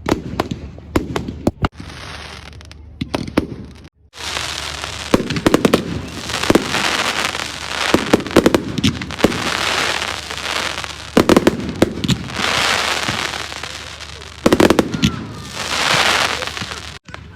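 Aerial fireworks going off: a string of sharp bangs, then from about four seconds in a dense crackling hiss of exploding shells with bangs scattered through it, loud throughout.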